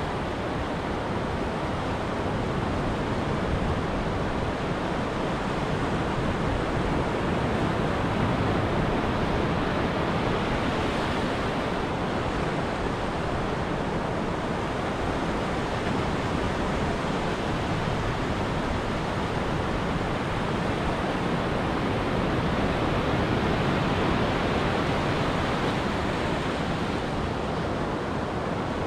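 Ocean surf on a beach: a steady rush of breaking and washing waves that rises and falls in slow swells.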